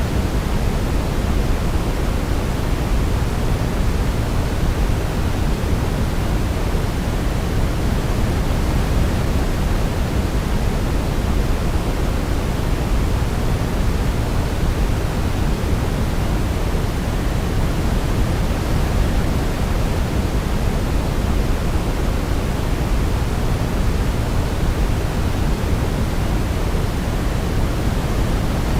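Steady white noise for baby sleep: an even, deep hiss, heavier in the low end than in the highs, with no melody heard over it.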